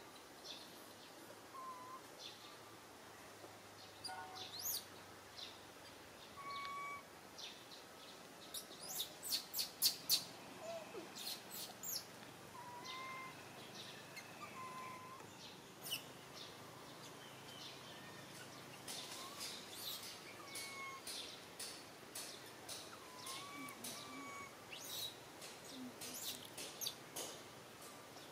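Wild birds chirping in the surrounding trees: short, sharp high chirps in quick runs, loudest about ten seconds in, with brief whistled notes in between.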